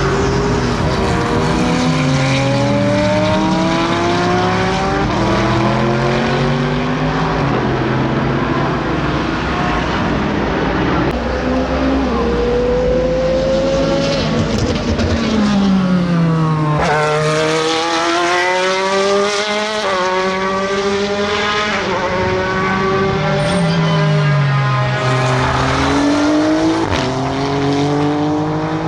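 SUPER GT race car engines accelerating hard, revs climbing and dropping with each upshift, several cars in succession. About halfway through one car passes and drops in pitch as it goes by.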